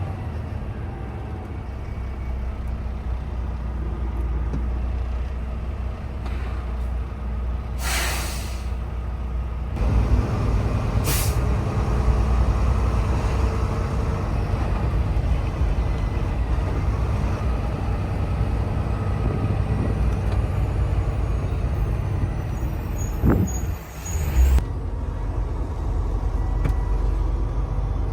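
Semi-truck's diesel engine running steadily, with a hiss of air from the air brakes about eight seconds in and a shorter hiss about three seconds later. A brief thump comes about 24 seconds in.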